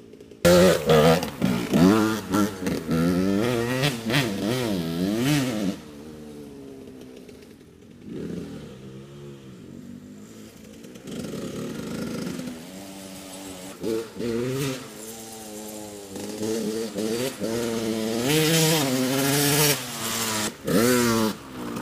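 Dirt bike engine being ridden, revving up and down again and again through the gears, with a quieter stretch of a few seconds near the middle before it pulls hard again.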